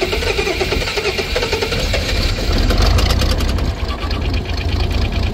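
Farm tractor engine running, getting louder with a rapid even pulse about two and a half seconds in.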